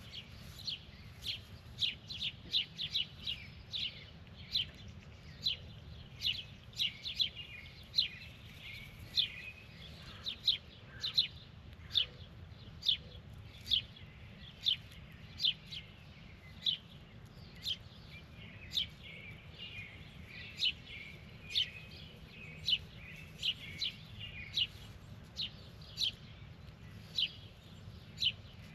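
A bird chirping over and over, short sharp chirps at about one to two a second, over a steady low background rumble.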